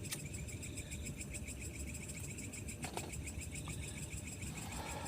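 Crickets chirping in a steady, fast pulse of about ten chirps a second, with a couple of faint clicks.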